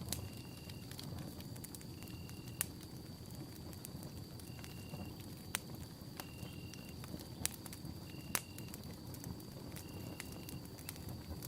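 Campfire burning with a low, steady rumble and sharp crackling pops a few times, the loudest about two and a half seconds in and twice near eight seconds in. Over it a short high chirp repeats evenly about every second and a half to two seconds, along with a faint steady high tone.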